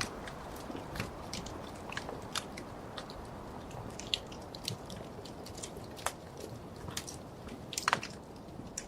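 Wood fire crackling in a fireplace: irregular sharp pops and snaps over a steady low hiss of the burning fire, with a louder double crack near the end.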